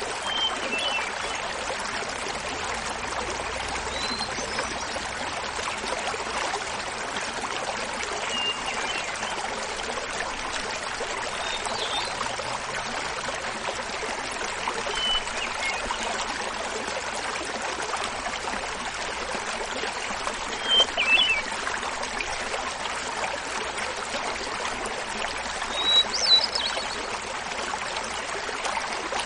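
Small mountain waterfall splashing steadily, with a hermit thrush singing short flute-like phrases every three to four seconds; the loudest two phrases come in the latter part.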